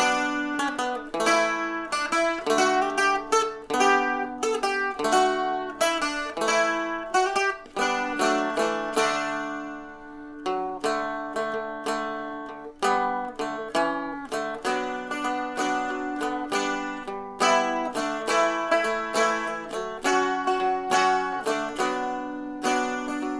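Seagull Merlin, a small four-string dulcimer-style instrument, picked in a quick melody over steady low drone notes.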